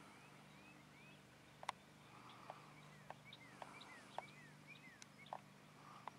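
Faint bird chirps: many short rising and falling notes scattered through, over a steady low hum, with a few sharp clicks, the loudest near the start.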